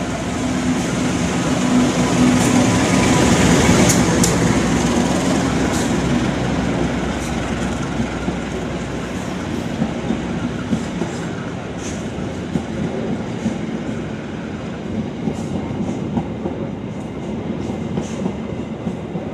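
CC 204 diesel-electric locomotive running past with its passenger train, loudest a few seconds in as the locomotive passes. The coaches follow, rolling by with a steady rumble and a run of clicks and knocks from the wheels over the rail joints.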